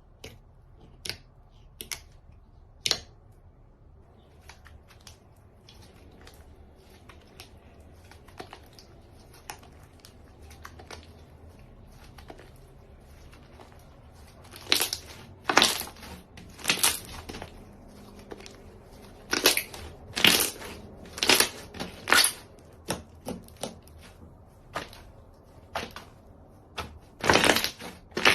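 Store-bought slime being squeezed and worked by hand, making sharp pops and crackles. The pops are scattered and light at first, then come as a run of loud bursts from about halfway through.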